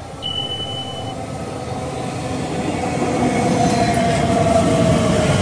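Elizabeth line Class 345 electric multiple unit running in alongside the platform, its wheel-and-rail rumble growing steadily louder. A motor whine drops slightly in pitch as it slows. A short steady high tone sounds briefly near the start.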